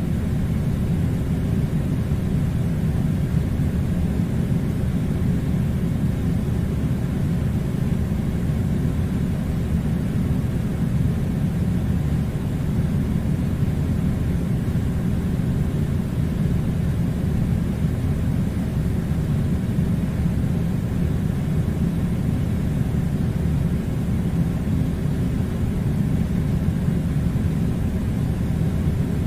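Air conditioner blowing cold air: a steady, unbroken low rumble.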